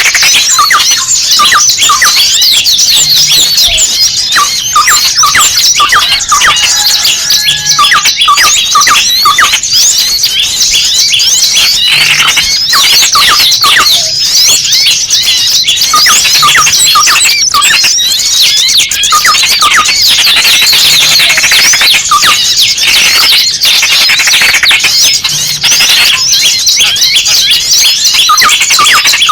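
Bird-lure recording of many small birds chattering at once: a dense, loud, unbroken chorus of short high-pitched chirps and squeaks. The noisy, agitated calls, including those of a caught small bird, are used to draw small birds in.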